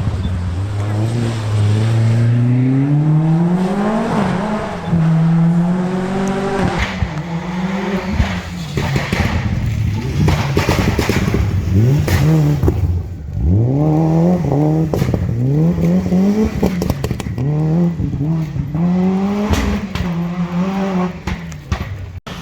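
Rally car engine under hard throttle. The note climbs steadily over the first few seconds, then repeatedly rises and drops back in sharp swoops, about once a second in the second half, as the car is driven through gears and on and off the throttle.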